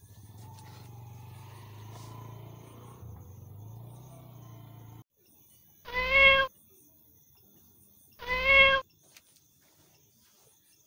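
Two loud, drawn-out cat meows about two seconds apart, each the same in shape. Before them, a low steady hum cuts off suddenly about five seconds in.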